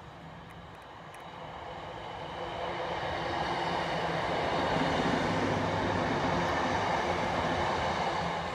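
ScotRail Class 318 electric multiple unit passing close by. The rush of its wheels grows louder over the first few seconds as it draws level, then holds, with a steady hum running under it.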